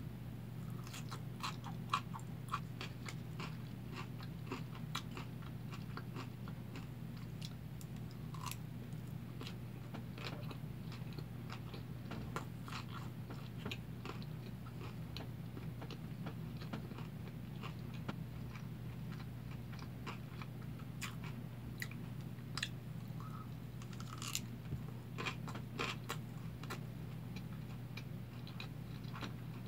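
Close-up crunching and chewing of a slice of pickled radish (danmuji), with crisp crackles in clusters: densest in the first few seconds, again around a third of the way in, and about three-quarters through. A steady low hum runs underneath.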